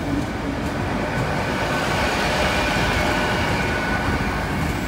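Five-car LNER Azuma (Class 800) train, running on its diesel engines, passing slowly over the level crossing with a steady rumble and a faint steady whine.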